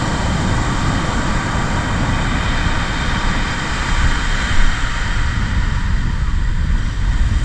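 Wind buffeting the microphone in a heavy, uneven low rumble, over the steady rush of surf on the beach.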